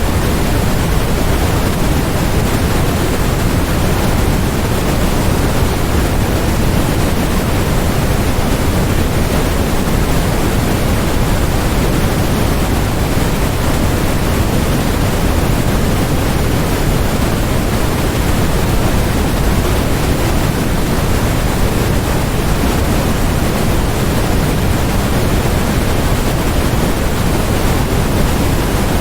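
Steady generated noise, sold as white noise, running evenly without a break. It is fuller in the bass than in the treble, closer to pink noise.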